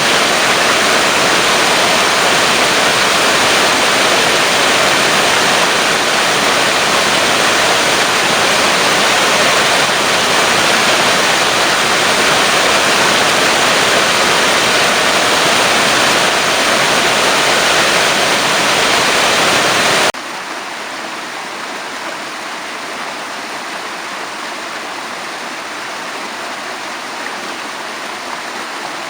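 Waterfall rushing in a steady, loud roar of falling water, which drops suddenly to a quieter, thinner rush about twenty seconds in.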